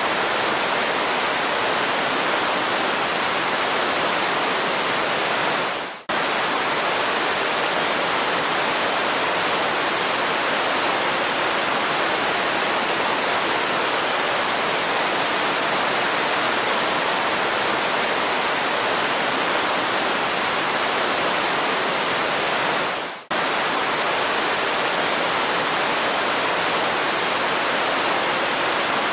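Waterfall, a steady loud rush of falling water. It dips away briefly twice, about six and twenty-three seconds in, and cuts straight back in each time.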